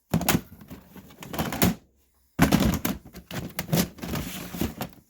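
Plastic toys and storage bins being handled and shifted: a run of knocks and clatters, with the sound dropping out completely for about half a second a little before halfway.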